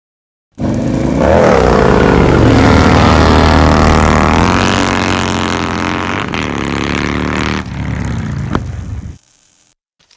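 Indian Chieftain motorcycle's Thunder Stroke 111 V-twin engine running and being revved, its pitch rising and falling several times. It stops suddenly about nine seconds in.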